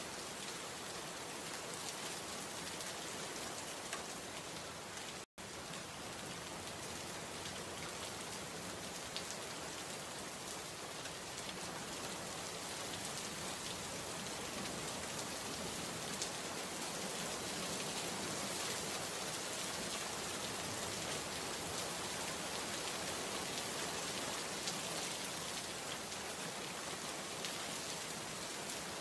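Steady rain falling, an even continuous wash of drops on surfaces, with a split-second cut to silence about five seconds in.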